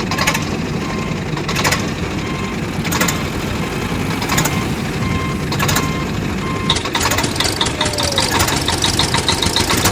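A vehicle engine running steadily, with short repeated beeps like a reversing alarm and a sharp click about every second and a half. Rapid high ticking joins about two-thirds of the way in.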